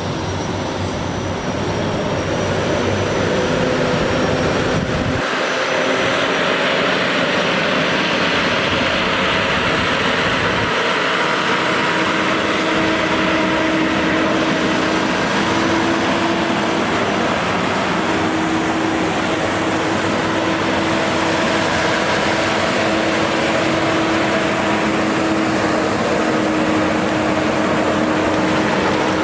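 A vehicle engine running steadily, with a faint steady hum over a broad loud rush.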